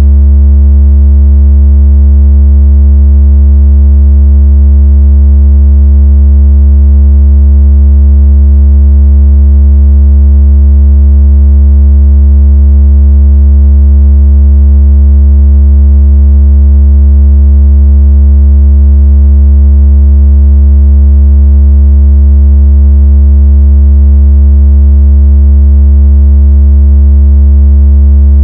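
Loud, deep, steady synthetic low tone, a 'water out of speaker' bass vibration tone, with faint overtones above it. It holds one pitch and level without change.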